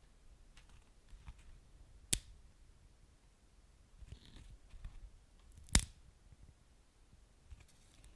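Wood fire burning, with soft scattered crackles over a faint low rumble. Two sharp, loud pops come about two seconds in and again nearly four seconds later.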